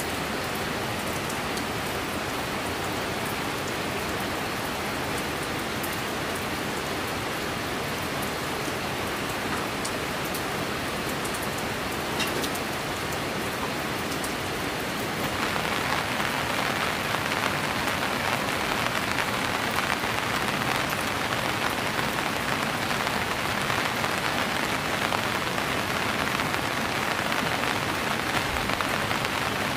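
Steady heavy rain falling, with scattered drop ticks; it grows louder and brighter about halfway through and stays so.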